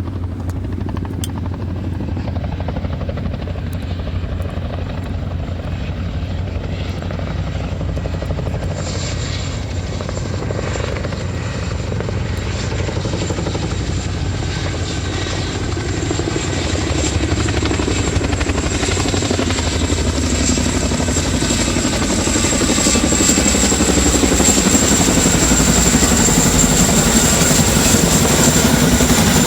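Helicopter rotor and engine noise, a steady low-pitched drone that grows louder through the second half.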